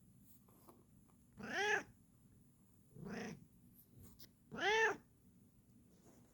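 Bengal cat meowing three times, about a second and a half apart, each call rising then falling in pitch; the middle meow is lower and quieter.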